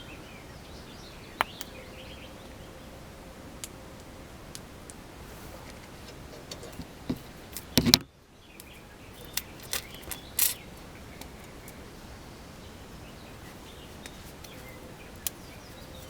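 Scattered clicks and light metal knocks from hand work on brake caliper parts while a guide pin is being greased, with a louder cluster of knocks about eight seconds in and a few more just after. A steady outdoor background with faint bird calls runs underneath.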